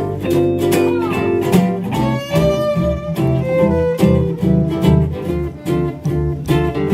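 Western swing band playing an instrumental break: fiddle carrying the lead over strummed rhythm guitar and a walking bass, in a steady swing beat.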